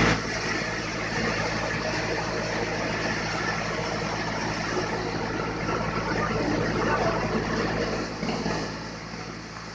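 Sawmill machinery running, a steady engine hum under a noisy mechanical rush that eases off about eight and a half seconds in.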